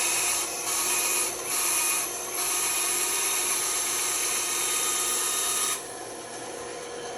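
Band saw blade cutting through wood with a steady hissing rasp, easing off briefly a few times as the piece is fed and turned. About six seconds in the cutting stops and only the quieter running of the saw is left.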